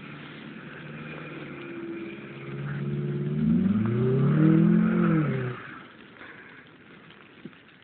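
1996 Integra SE's B18B1 1.8-litre four-cylinder, fitted with a short ram intake, running at low revs. From about three seconds in, the revs climb as it spins doughnuts in the snow, stay high for about two seconds, then drop away suddenly as the throttle is lifted.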